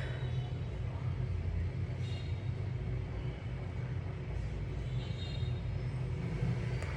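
Steady low rumble of background noise, with faint high tones now and then.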